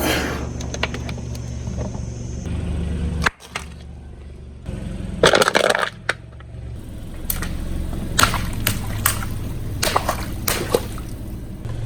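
Car engine running slowly while its tyre crushes objects: a crunch about five seconds in, then a run of sharp snaps and cracks over the steady engine hum.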